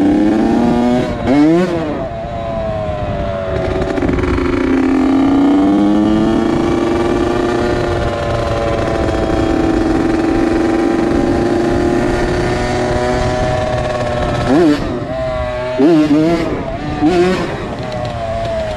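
2001 Honda CR80's two-stroke single-cylinder engine running under a ride, held at nearly steady revs for most of the stretch. There is a quick rev blip about a second in and several more near the end.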